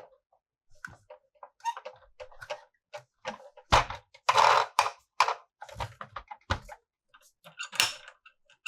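Hands handling plastic toy pieces and packaging: irregular clicks, taps and snaps, with a louder rustle of packaging around the middle.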